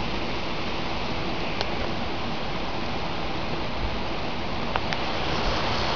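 Heavy rain pouring down, a steady even hiss with a few faint ticks.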